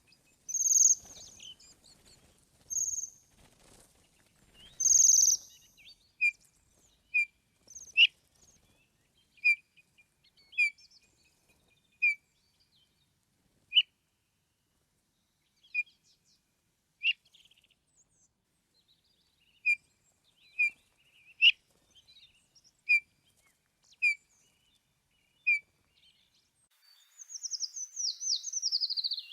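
Birds calling. A few loud, high chirps come first, then short single notes repeat about every second or so, and near the end there is a quick run of falling notes.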